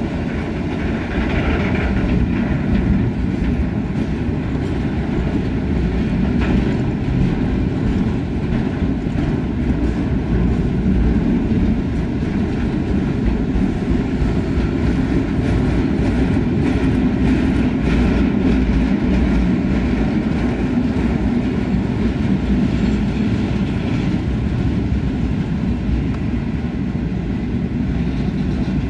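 A works train's freight wagons, loaded with open-top containers and bins, roll steadily past with a continuous rumble. Wheels click repeatedly over the rail joints.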